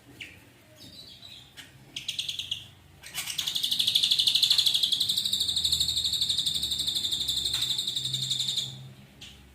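Ashy drongo singing: a few short high notes, then from about three seconds in one long, rapid, buzzy trill that runs for nearly six seconds before fading.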